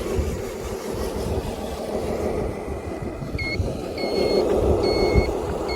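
Scale RC dump truck's engine sound module running steadily with a low rumble. About halfway in, its reversing beeper starts and beeps four times at an even pace as the truck backs up.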